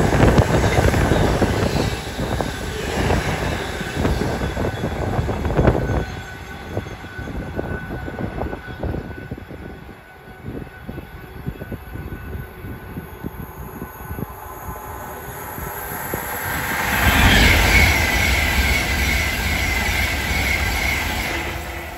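A train passing, its wheels clattering over the rail joints, dying away over the first several seconds. Then another train approaches and passes, loudest near the end, with a high thin tone over its rumble.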